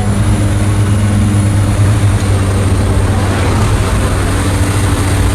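Steady, loud drone of a skydiving jump plane's engine and propeller.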